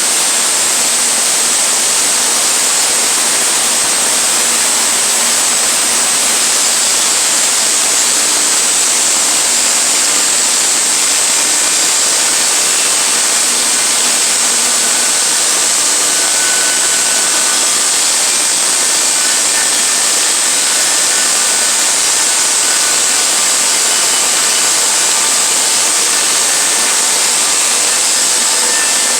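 Portable sawmill running and sawing through a log: a loud, steady noise with a faint engine hum beneath it.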